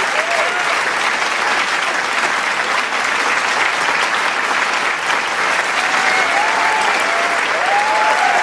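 Large crowd clapping steadily, with shouts and whoops of cheering over the applause near the start and again in the last couple of seconds.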